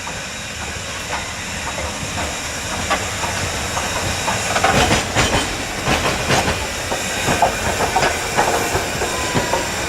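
Steam locomotive hissing steadily, growing louder, with irregular clicks and clatter from about halfway through.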